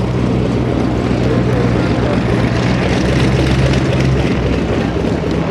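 Stearman biplane's 450 hp Pratt & Whitney R-985 nine-cylinder radial engine running in flight, a steady low tone over a rushing noise; the low tone drops away about four seconds in.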